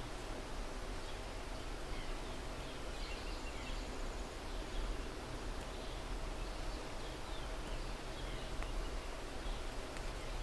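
Faint, scattered bird chirps over a steady outdoor background with a low rumble.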